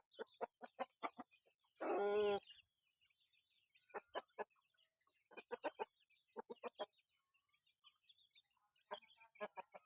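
Zebra doves calling in groups of short, quick staccato notes, with one longer, louder call about two seconds in.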